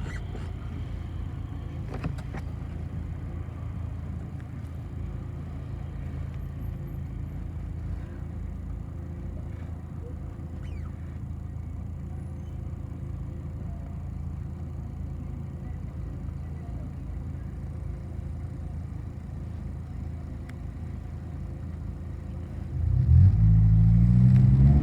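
City bus engine running with a steady low rumble, heard from inside the bus. About two seconds before the end it grows much louder, its pitch rising and falling as the engine revs up under acceleration.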